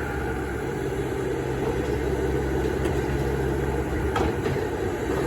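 Heavy diesel engines of an excavator and dump trucks running steadily at a dirt-loading site, a continuous low drone.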